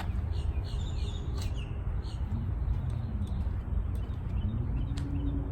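Small birds chirping in short quick calls during the first second and a half, over a steady low rumble, with a faint hum that rises and falls in pitch and a couple of sharp clicks.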